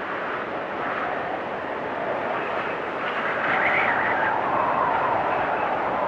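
Storm wind blowing steadily with a whistling tone, swelling into a louder gust about three seconds in.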